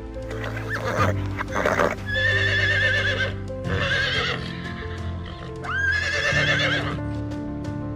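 Horse whinnying twice, each a long quavering neigh, over soft background music with held notes.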